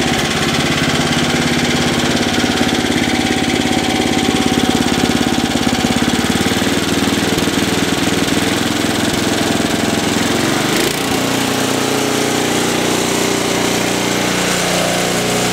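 5 HP Tecumseh single-cylinder small engine running steadily with a loud exhaust, its pitch shifting briefly about eleven seconds in. It has a knock from the crankcase, which the owner takes for a worn connecting rod (rod knock).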